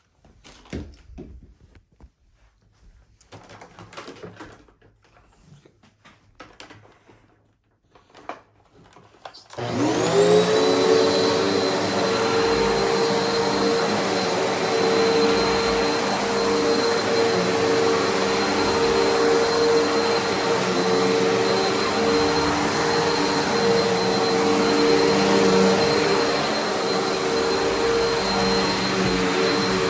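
A few light knocks and clicks, then about ten seconds in a Eureka Altima vacuum cleaner switches on, spins up quickly and runs steadily with a high whine over its motor hum.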